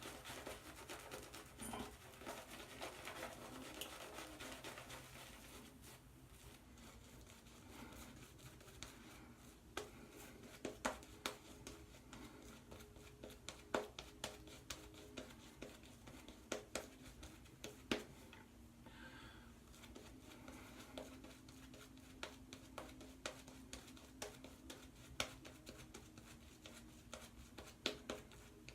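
Omega boar-bristle shaving brush working lather on the face: faint wet swishing and crackling, turning after about six seconds into scattered sharp clicks and pops.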